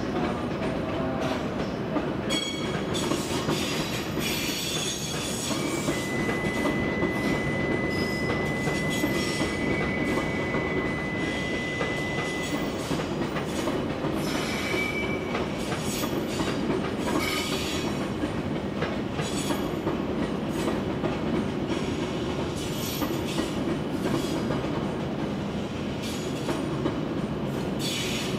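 A train running slowly on the rails, a steady rumble with irregular clicks and wheel screeches. About six seconds in, a steady high squeal starts and lasts about seven seconds.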